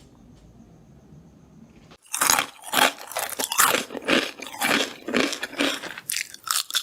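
Near silence for about two seconds, then loud, close-miked chewing of crunchy food, a quick run of crisp crunches that goes on without a pause.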